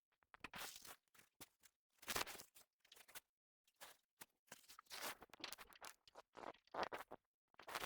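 Faint, irregular handling noises: short rustles, clicks and scuffs as a folding light box frame and its fabric are set up, with quiet gaps between.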